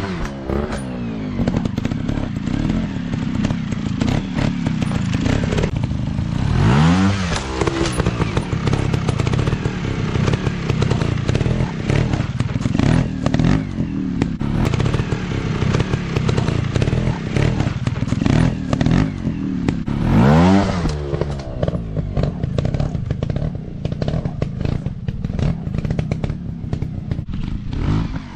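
Dirt bike engines running, with three sharp revs that rise and fall in pitch: one at the start, one about a quarter of the way in and one about three-quarters in. Rattling and clattering knocks run through.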